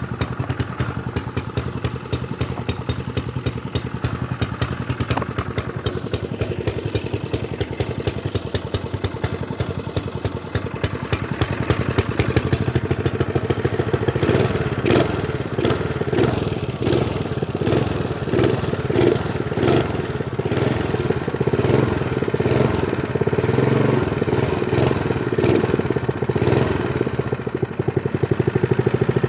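Honda GX120 single-cylinder overhead-valve engine on a minibike, governor bypassed, running steadily just after a cold start from long storage. Its beat grows a little louder and fuller from about halfway through.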